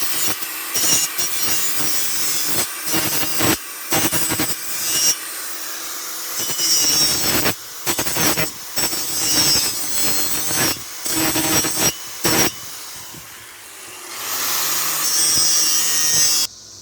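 Power-tool wire wheel scrubbing metal clean ahead of welding, in rough stop-start passes. Near the end the tool's hum rises, then cuts off suddenly.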